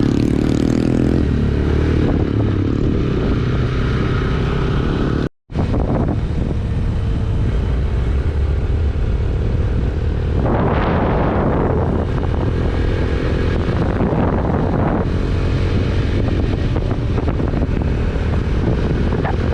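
Yamaha YBR125G motorcycle engine running steadily while riding. The sound drops out for a split second about five seconds in.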